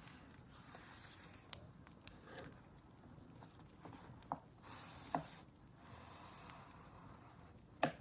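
Crackling wood fire: a low steady hiss with scattered sharp pops, the loudest just before the end.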